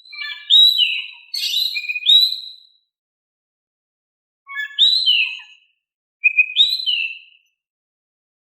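Oriental magpie-robin (kacer) singing: three short bursts of clear whistled notes, each note a quick upward and downward slur, with silent gaps between the bursts.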